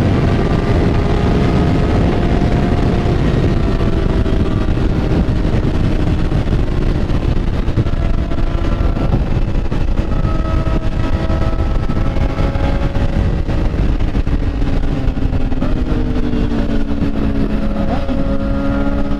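Motorcycle engine running under way, its note sinking over the first few seconds and climbing again near the end as the throttle changes through the bends, over heavy low wind and road noise.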